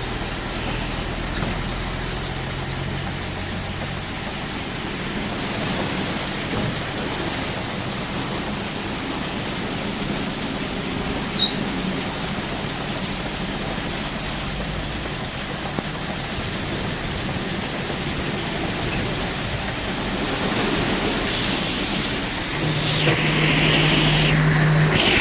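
Automatic car wash running: a steady rush of spraying water and machinery, with a low motor hum at the start and again near the end, and a louder swish near the end.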